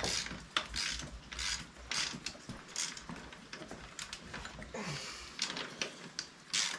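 Hand ratchet wrench clicking in short back-and-forth strokes, about two a second, as tight bolts are worked loose.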